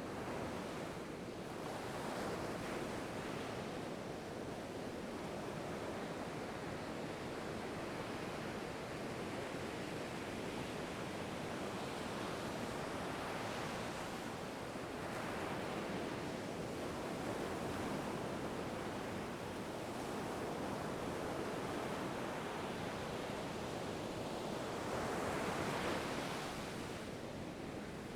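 Ocean surf: a continuous wash of waves breaking and hissing, swelling and ebbing slowly, with the biggest swell near the end.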